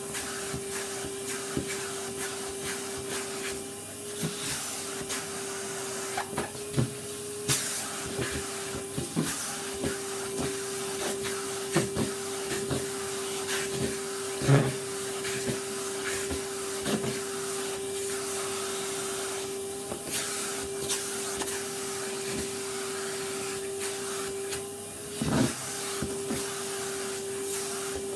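Vacuum cleaner running steadily with a constant motor whine and rushing air. Its pitch dips briefly now and then, and scattered knocks and scrapes come from working over a surface, with a louder knock about halfway and another near the end.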